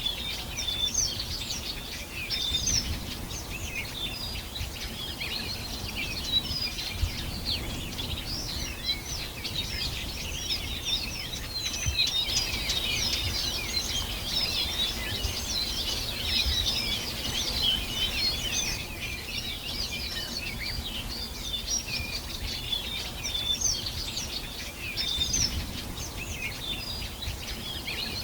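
Many small birds singing and chirping at once, a dense chorus of short, overlapping high chirps and trills that grows thicker for a few seconds in the middle, over a low background rumble.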